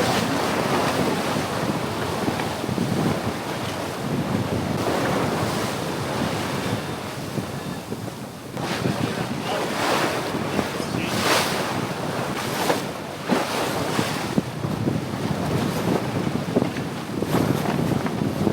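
Strong wind buffeting the microphone over the rush of waves along a sailboat's hull at sea, swelling and easing in irregular surges.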